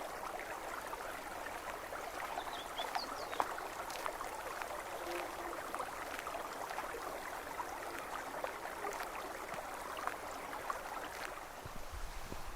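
A forest stream trickling and babbling steadily, with a few brief high bird chirps and, near the end, some soft low thuds.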